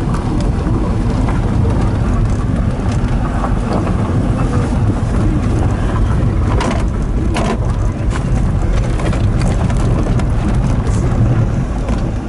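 Daihatsu Hijet kei truck driving on a rough track: steady engine and road noise, with scattered crunches and knocks from the tyres and body, two sharper knocks about seven seconds in.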